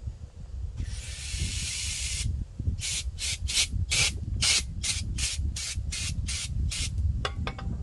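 A pressurised spray hissing while a lawnmower carburetor is cleaned: one spray of about a second and a half, then about a dozen short, quick bursts.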